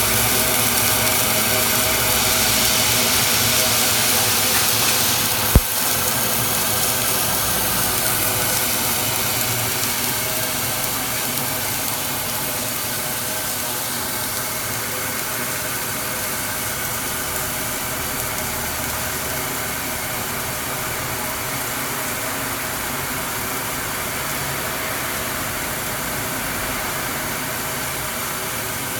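Twin-head submerged arc circular welding machine running: a steady machine hum with several steady tones under a hiss. A single sharp click comes about five and a half seconds in, after which the high hiss eases.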